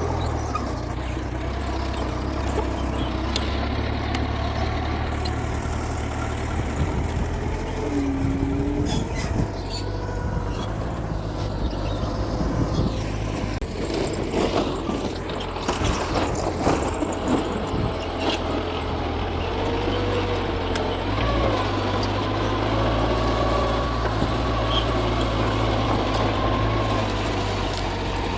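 Mitsubishi G2 bulldozer's diesel engine running under load while pushing soil, its pitch rising and falling with the work, with a cluster of sharp knocks about halfway through.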